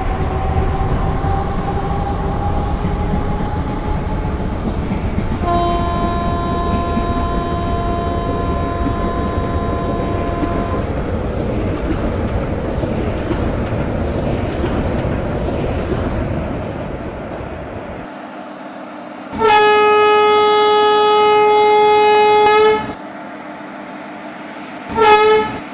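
Train running past with a steady rumble and a long horn blast about five seconds in. The rumble then fades, a louder horn sounds for about three seconds, and one short horn toot follows near the end.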